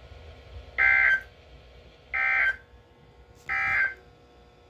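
NOAA Weather Radio SAME end-of-message data bursts: three short, identical buzzing digital tone bursts about a second and a half apart, marking the end of the warning broadcast. A faint low hum sits underneath.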